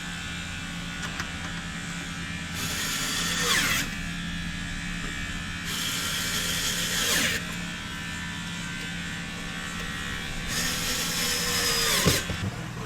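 Three bursts of electric-motor whir, each about a second and a half long and each ending in a falling whine as the motor spins down, over a steady low hum.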